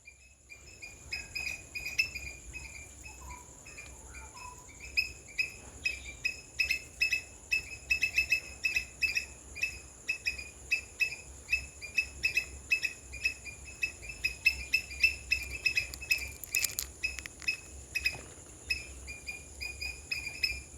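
A long, steady series of short, sharp chirps, about two to three a second, over a continuous high-pitched insect trill.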